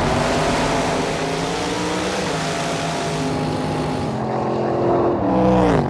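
Drag-race cars running at full throttle, a loud engine noise whose pitch climbs and steps through the run. Near the end the engine pitch falls sharply.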